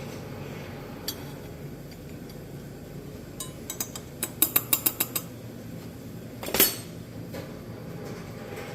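Metal hand tools clinking: a quick run of about ten light, sharp taps, then a single louder knock with a brief ring about a second and a half later, over a steady background hum.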